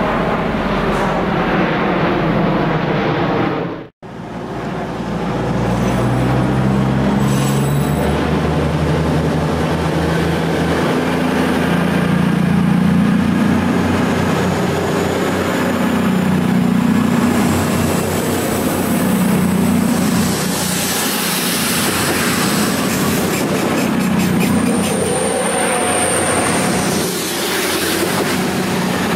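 CrossCountry diesel multiple unit passing slowly close by, its underfloor diesel engines running with a low, shifting drone and its wheels squealing high and thin through the second half. Before it, other train noise breaks off abruptly about four seconds in.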